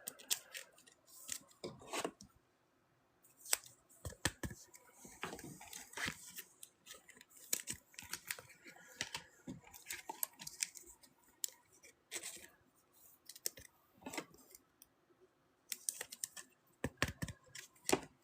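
Football trading cards being handled: a stack of cards slid and flicked one by one, giving faint, irregular clicks, snaps and short scrapes.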